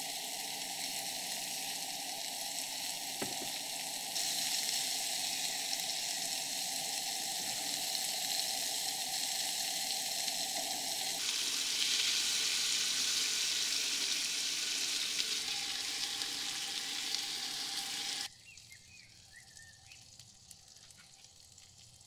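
Food sizzling and frying in a hot pan, a steady hiss that changes abruptly in level twice, as if cut between shots. Near the end the sizzle stops suddenly, leaving a quiet background with a few faint chirps.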